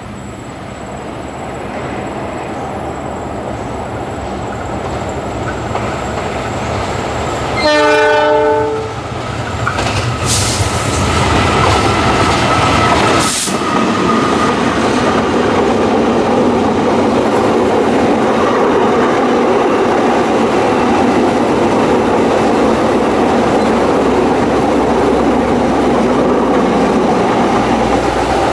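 Diesel-hauled passenger train approaching and passing close by, growing louder for the first several seconds. About eight seconds in, the locomotive's horn sounds one blast of about a second, the loudest moment. After that the coaches run past with a steady rumble and the clickety-clack of their wheels.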